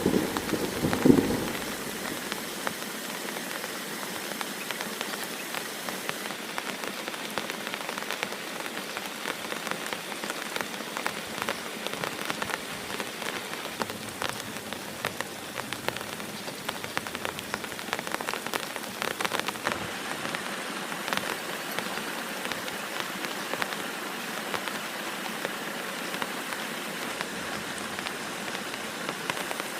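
Heavy rain falling steadily, with many close drops pattering on a surface. It opens with a short, loud low burst that fades within the first couple of seconds.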